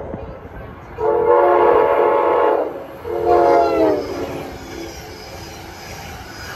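Steam locomotive No. 89's whistle blowing one long blast and then a shorter one that sags in pitch as it shuts off.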